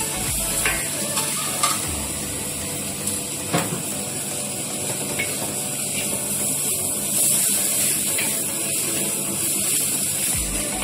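Food sizzling in a hot wok as it is stir-fried, with a wooden spatula knocking and scraping against the pan a few times.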